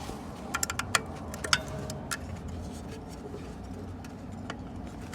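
Light metallic clicks and clinks of automatic-transmission parts being handled during assembly, several sharp ticks in the first two seconds and a few scattered ones later, over steady background noise.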